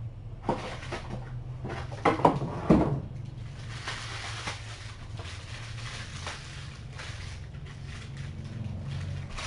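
A few knocks and clatter, the loudest about two seconds in, then a steady rustle for the rest, over a low hum.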